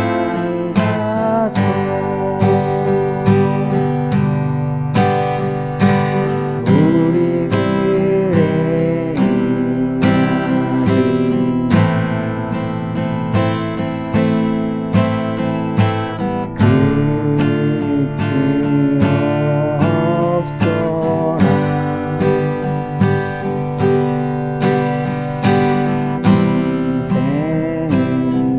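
Steel-string acoustic guitar strummed in a steady slow-rock rhythm, a down, down, up, down, up stroke pattern, moving through the song's chords.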